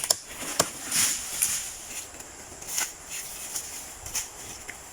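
About six sharp knocks at irregular intervals, over a steady high-pitched hiss.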